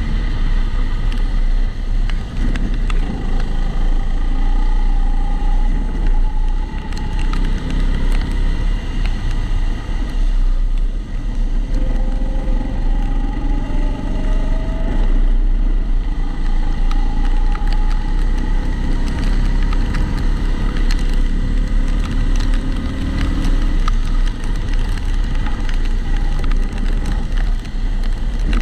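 Kombikart Eco kart running at speed, its pitch slowly rising and falling through the corners, with a heavy steady low rumble on the recording from a camera mounted in a protective housing.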